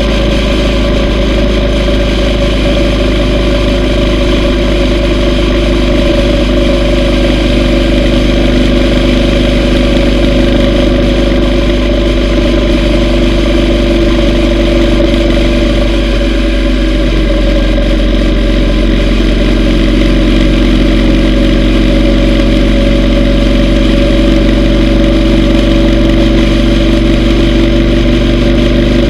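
Yamaha V Star 950's air-cooled V-twin engine running steadily while riding. Its pitch dips slightly about halfway through and then settles again.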